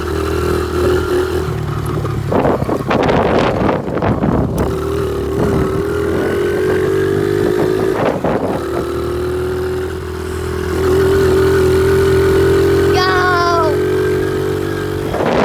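A pit bike's small single-cylinder engine running steadily as it is ridden, louder under more throttle for a couple of seconds about two thirds of the way in. Bursts of wind noise on the microphone come a few seconds in and again around eight seconds.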